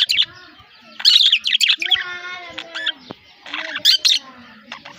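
Pet budgerigars chirping and warbling in irregular bursts, loudest about a second in and again near the four-second mark.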